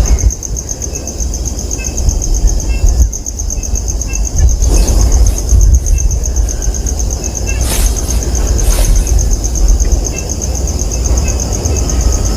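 Insects chirring in a steady, fast-pulsing high trill over a heavy low rumble, with a few short knocks and faint chirps.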